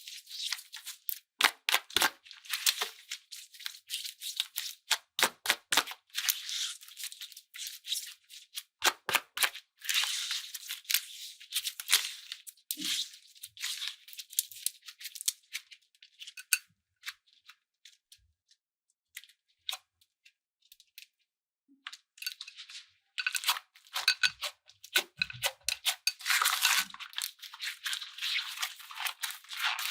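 Slime and clay being squeezed and worked by hand: runs of quick crackling clicks and crunches, thinning out to scattered clicks for several seconds in the middle, then building up again.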